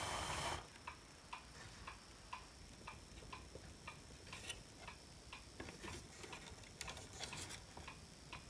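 A loud hiss that stops about half a second in, then faint, even ticking at about two ticks a second, with a few louder clicks near the end.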